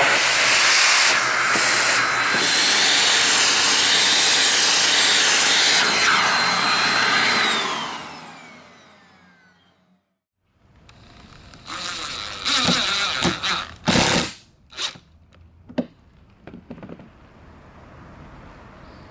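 Nilfisk GM80 vacuum cleaner running steadily, then switched off about seven seconds in, its motor whine falling as it winds down over a couple of seconds. After a short silence come a handful of knocks and clatters.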